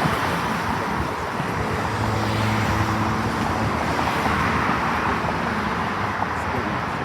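Road traffic: the steady rushing tyre and engine noise of cars going by, swelling a little as vehicles pass.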